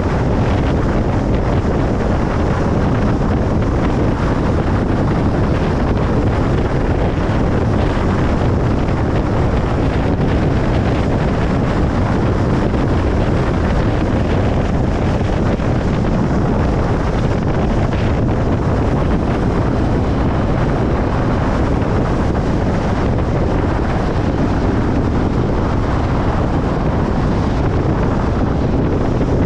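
Steady road noise of a car driving on a highway: a constant low rumble of tyres and wind with no changes or separate events.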